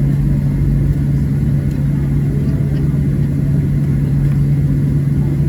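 Boeing 737-700's CFM56-7B jet engines at takeoff power, heard inside the cabin as a loud, steady low drone with a deep rumble under it.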